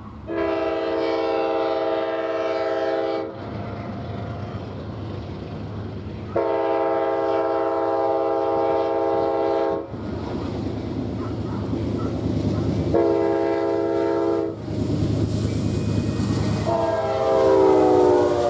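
Amtrak passenger train's air horn sounding two long blasts, a short one and a final long one, the standard grade-crossing signal, over the rumble of the approaching train. The pitch of the last blast drops as the locomotive passes.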